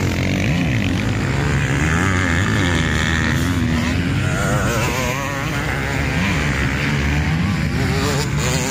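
Several motocross bikes running on the track, their engines overlapping and rising and falling in pitch as the riders open and close the throttle.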